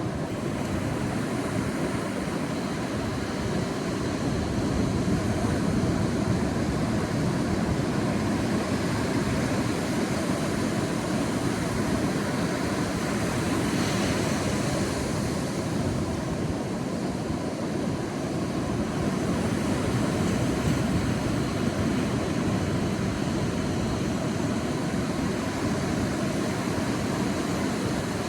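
Sea waves washing on a beach: a steady low rush of surf that slowly swells and eases, with a brighter hiss of a breaking wave about halfway through.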